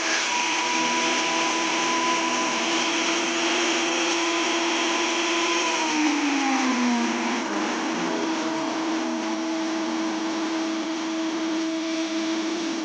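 High-speed woodworking power tool running steadily with a whining hum. About six seconds in its pitch sags for a second and recovers, as the motor bogs while cutting into the wood.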